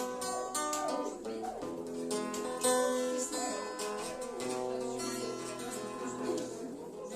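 Acoustic guitar playing the instrumental close of a song, strummed and plucked chords changing every half second or so.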